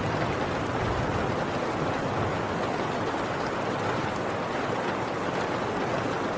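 Heavy rain pouring steadily on a tin roof, an even hiss of drops on metal. A low rumble of distant thunder fades out in the first second or so.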